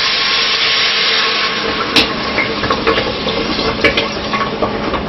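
Beef and onions sizzling in hot oil in a pressure-cooker pot. The sizzle is strongest for the first second and a half, then eases, with a few sharp clinks of a utensil on the pot about two and four seconds in.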